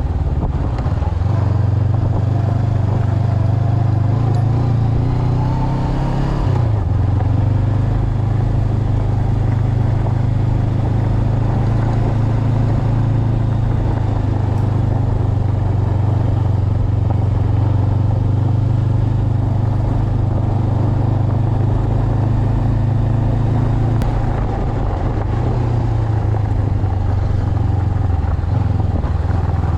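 Honda CB500X's parallel-twin engine running steadily under way, with a couple of brief changes in its note.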